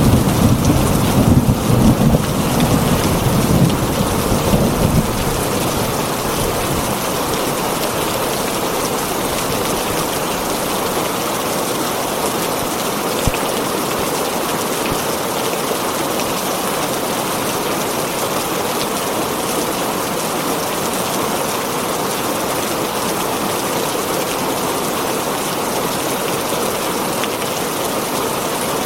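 Heavy rain falling steadily on a tin roof, with a low thunder rumble that dies away over the first few seconds.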